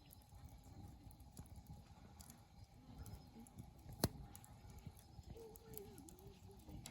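Wood fire burning with soft, irregular crackles, and one sharp loud pop about four seconds in. A faint wavering whistle comes near the end.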